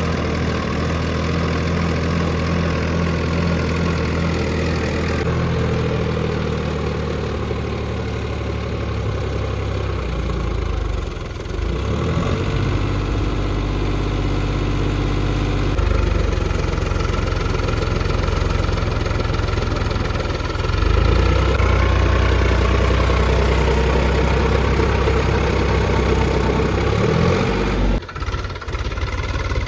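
Tractor engine running steadily, its pitch stepping up and down several times as the throttle changes, with a brief dip near the end.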